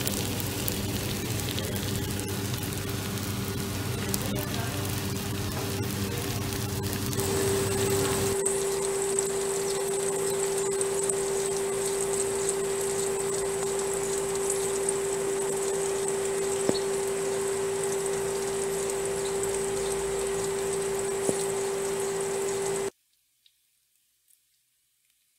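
Food frying in hot oil in a pan: a dense, steady sizzle and crackle with a steady hum-like tone beneath it. It changes character about eight seconds in and stops abruptly near the end.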